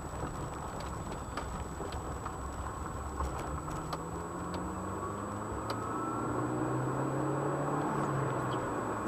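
Car engine accelerating from a standstill, heard from inside the cabin, its pitch rising from about three and a half seconds in while tyre and road noise grow with speed.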